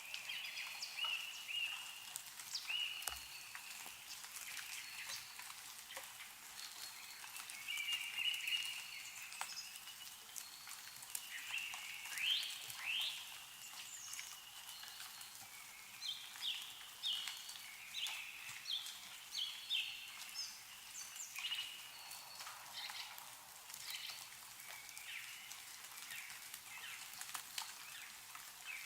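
Songbirds calling and chirping, with a quick run of repeated notes in the middle, over scattered drips of meltwater falling from snow-laden trees.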